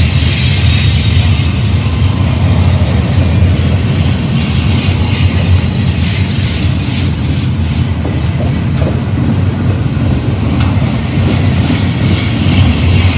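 BNSF double-stack intermodal train's well cars rolling past close by: a loud, steady rumble of steel wheels on rail, with a few faint clicks in the middle.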